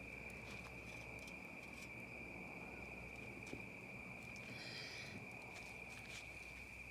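Crickets trilling, a faint, steady high-pitched drone with no break.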